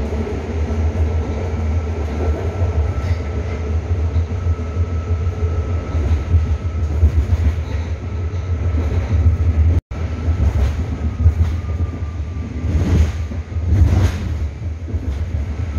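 BART train car running along the line, heard from inside the car: a steady heavy rumble with a faint thin whine above it, and a few rattles and clunks near the end. The sound cuts out for an instant about ten seconds in.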